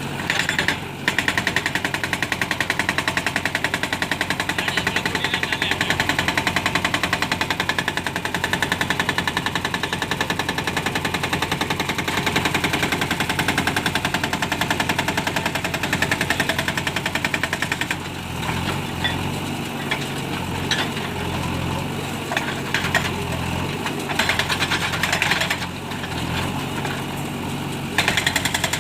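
Heavy construction machinery making a loud, rapid, even mechanical hammering clatter. After about 18 s it eases to a steadier engine run, and the rapid hammering returns briefly twice near the end.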